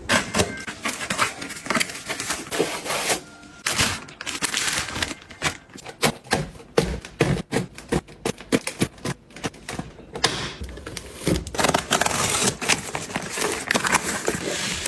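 Rapid, irregular clicks, taps and knocks of household items and containers being handled and set down, fastest in the middle.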